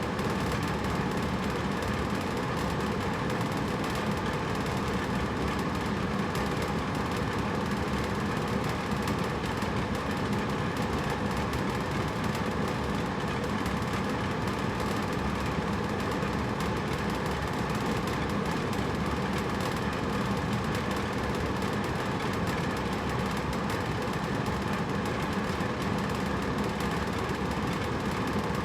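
Hotel room air conditioner running steadily: an even rush of blown air over a low hum, with no change in level.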